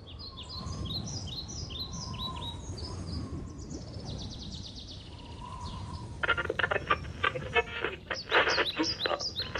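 Birds chirping: a run of short falling chirps, then a fast trill, then from about six seconds in a louder series of rapid chattering notes, over a low background rumble.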